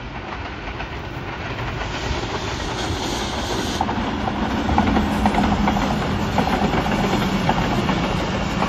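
Broad-gauge express passenger train running through the station without stopping: a dense rumble of wheels on rail that grows louder over the first few seconds. A steady low hum joins about halfway in, with faint clicking near the end.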